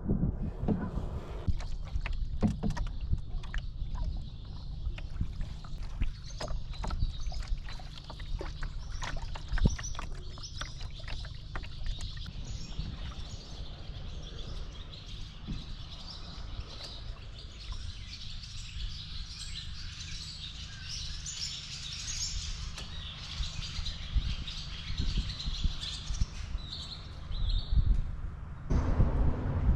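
Small birds chirping and singing over a steady low rumble of wind on the microphone. In the first twelve seconds there are many short knocks and splashes from paddling a canoe.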